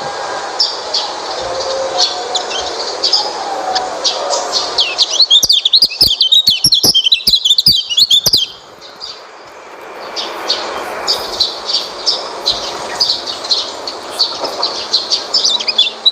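White-eye (pleci) song: rapid, high chirping phrases throughout. About a third of the way in comes a louder, denser run of twittering mixed with sharp clicks, followed by a brief lull before the chirping resumes.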